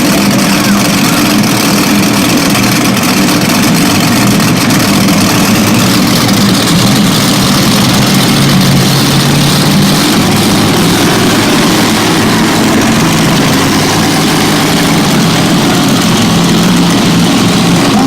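Monster truck engine running loudly at idle, its pitch shifting slightly now and then.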